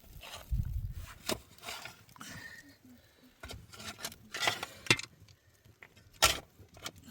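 Scattered knocks, rubs and scrapes of things being handled, the sharpest knock about six seconds in.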